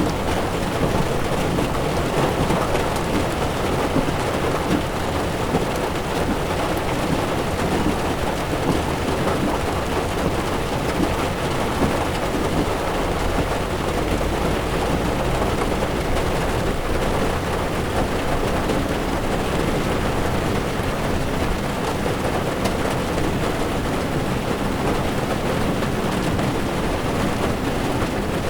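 Heavy rain drumming steadily on a car's windshield, with tyres running on a wet road, heard from inside the moving car.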